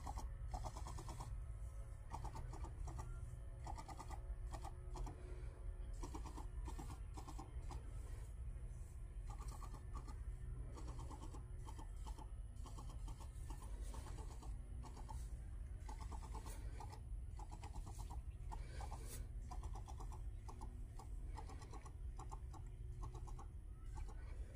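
Faint birds chirping in short repeated bursts over a steady low wind rumble on the microphone.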